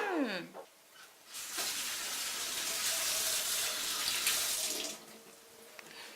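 Kitchen tap running into a sink for about three and a half seconds, starting about a second and a half in and shut off near the end.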